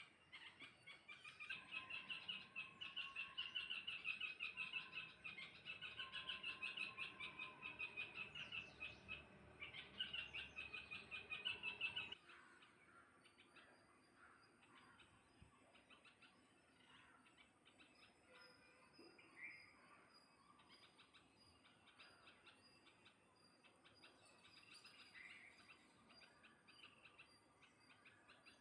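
Parrots chattering and chirping in a dense, rapid stream for about twelve seconds, then an abrupt cut to fainter, scattered chirps.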